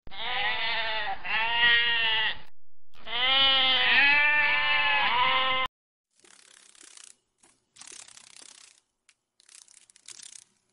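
Goat bleating: about four wavering calls in two pairs over the first five and a half seconds, then a sudden cut to faint, patchy outdoor noise.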